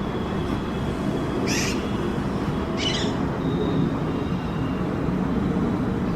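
Two short, sharp parrot squawks about a second and a half apart, over a steady low background rumble.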